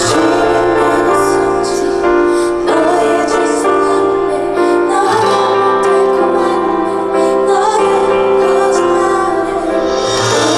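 A woman singing a song live over a piano-led musical accompaniment.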